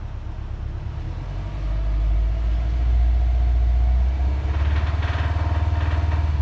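Subaru WRX's turbocharged flat-four engine running with a deep rumble that grows louder about two seconds in. It carries the bad engine noise that the owner suspects is rod knock or piston slap.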